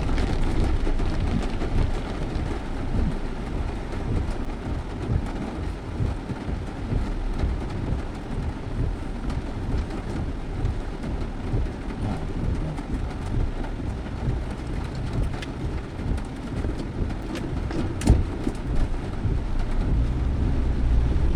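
Low, uneven rumble of a vehicle moving, with a few sharp clicks about three quarters of the way through.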